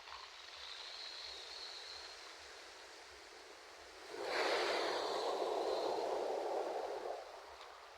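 Ocean surf: a steady wash of water, then a wave breaks about halfway through, swelling louder for about three seconds before fading back.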